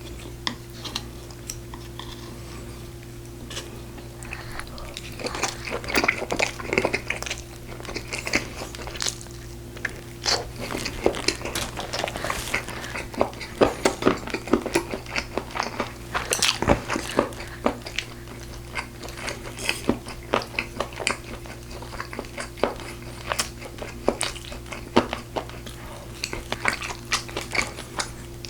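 Close-miked mukbang eating: a person biting and chewing braised pork ribs, with many small wet crunches and mouth clicks coming irregularly throughout.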